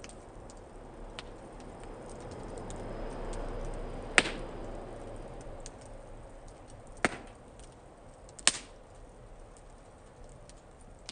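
Wood fire in a fire-pit stand crackling, with small ticks throughout and three sharp pops, the loudest about four seconds in and the others around seven and eight and a half seconds. A soft rush of flame swells and fades in the middle.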